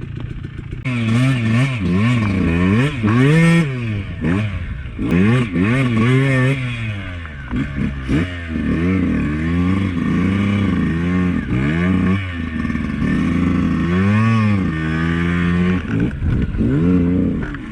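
Two-stroke dirt bike engine revving up and down again and again as it is ridden, its pitch rising and dropping with the throttle; it comes in loud about a second in.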